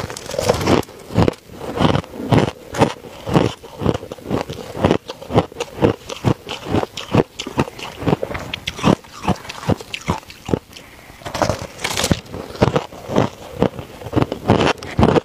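A person biting and chewing hard ice, a rapid string of sharp crunches a few times a second without a break.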